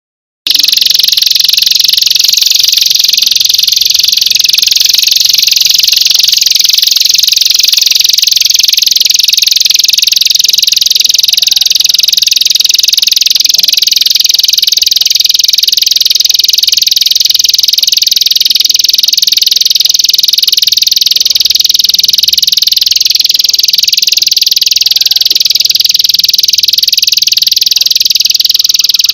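A continuous high-pitched, rapidly pulsing trill from an animal call recording used as masteran, songbird-training audio. It starts abruptly about half a second in and carries on without a break.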